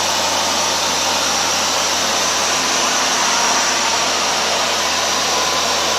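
Hoover Dual Power Max carpet washer running steadily, its suction motor and brushes working the carpet with an even whooshing noise over a low hum.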